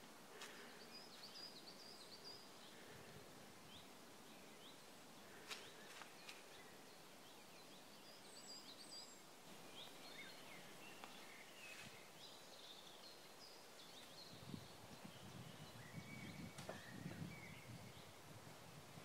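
Faint woodland ambience: small birds chirping now and then with short high notes. Some soft low rustling comes in for the last few seconds.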